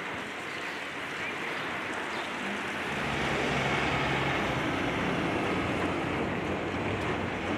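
An engine running over steady outdoor noise, its low rumble getting louder about three seconds in.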